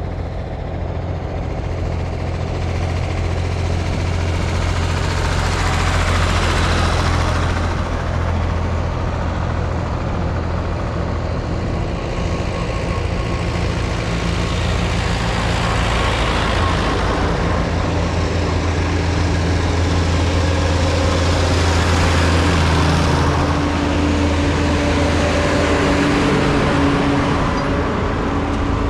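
Diesel tractor engines running on the road: a steady low drone, with three swells of louder noise as vehicles pass, about a quarter of the way in, near the middle and about three-quarters through.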